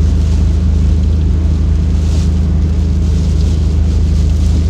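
Steady low drone of a car driving, heard from inside the cabin, with a hiss of rain and tyres on the wet road that swells briefly about two seconds in.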